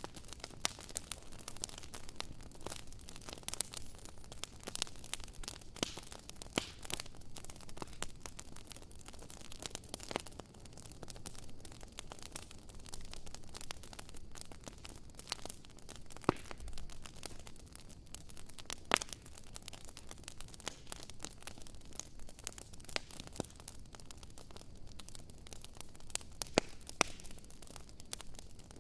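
Wood fire burning, a steady hiss with frequent irregular crackles and sharp pops.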